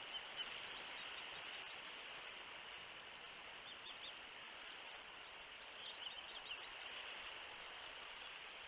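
Faint, steady outdoor hiss with a few brief, high bird chirps, clustered near the start, about four seconds in and about six seconds in.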